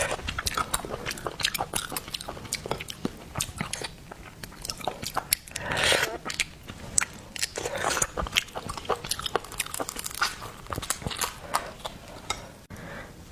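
Close-miked eating of seafood: many quick wet clicks and crunches of biting and chewing, with louder stretches about six and eight seconds in.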